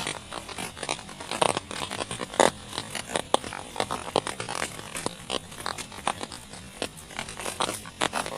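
Heavy rain falling, with many irregular sharp taps of drops striking a close surface over a steady hiss.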